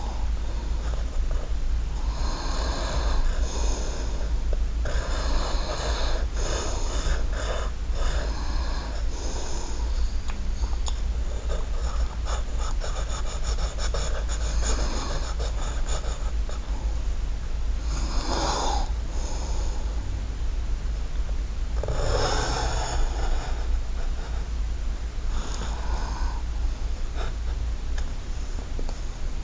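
Squeaky drawing strokes in several bursts, pitched and scratchy, over a steady low hum.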